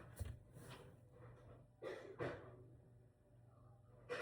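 Near silence: faint room tone with a low hum, and two brief soft sounds about two seconds in.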